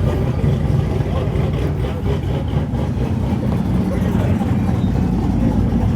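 Car engine idling with a steady low rumble, growing a little stronger in the second half, with voices in the background.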